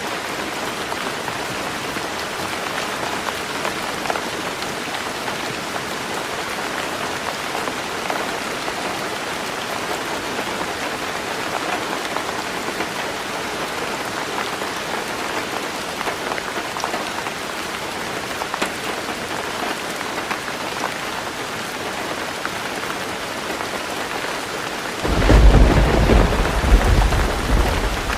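Heavy rain falling steadily on a tin roof. About three seconds before the end, a sudden loud low rumble of thunder breaks in over it.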